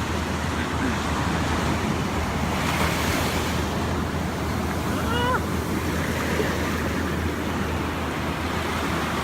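Ocean surf breaking and washing up a beach, a steady rush that swells briefly about three seconds in. A short faint call of a few quick notes sounds about five seconds in.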